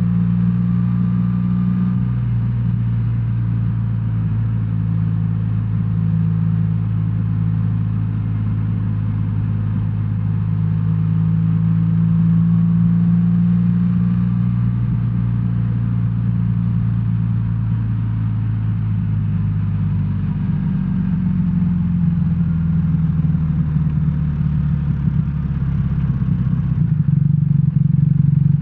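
A BMW R1300R's boxer-twin engine runs steadily as the motorcycle is ridden. Its note shifts about two-thirds of the way through, and it grows louder near the end.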